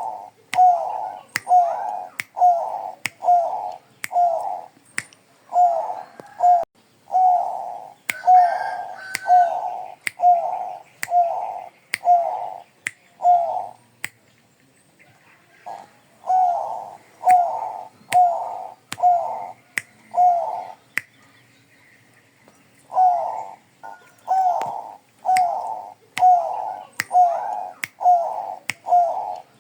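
Zebra dove (Bangkok perkutut) cooing: runs of short, repeated coo notes, about two a second, broken by two pauses. Sharp ticks sound between the notes.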